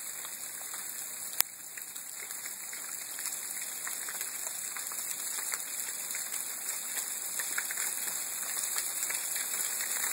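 Rain falling and pattering on surfaces, with many small drop ticks, getting a little heavier toward the end. A single sharp click about a second and a half in.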